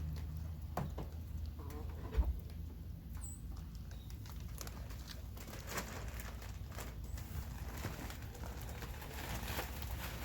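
Backyard chickens pecking and scratching about the coop: many scattered light ticks and patters at no regular rhythm, over a faint steady low hum.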